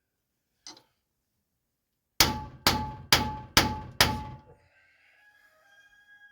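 Hammer striking metal during a differential rebuild: one faint tap, then five quick ringing blows about half a second apart, starting about two seconds in.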